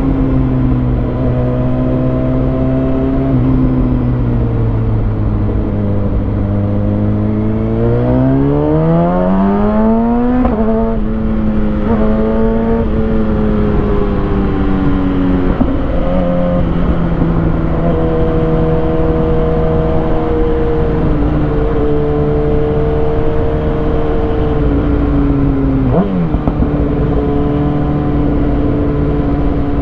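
Kawasaki Ninja ZX6R's inline-four engine through a Lextek SP7C carbon exhaust with decat headers, running at low revs. About eight seconds in it revs up through two quick upshifts, then settles into a steady cruise with a brief dip in revs near the end.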